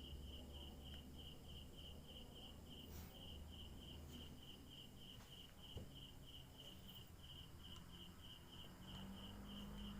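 A cricket chirping faintly and steadily, one high note pulsing about four or five times a second without a break.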